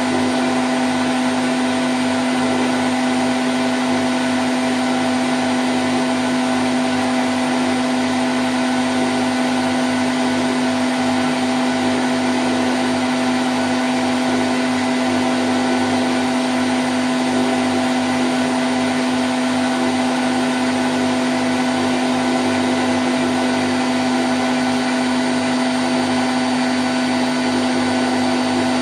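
Candy Grand O' F106 front-loading washing machine on its spin cycle at 1000 rpm: a steady, even motor whir with a constant hum and a hiss over it.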